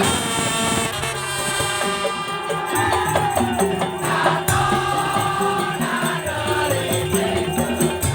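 Madurese daul (tongtong) band music: a loud, continuous ensemble of drums, rattling percussion and melodic pitched instruments playing a tune with a steady beat.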